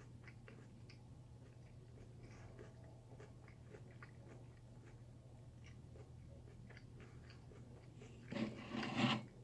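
Faint crunching of a mouthful of raw sweet potato being chewed, many small crisp crunches. Near the end comes a louder noisy burst lasting about a second.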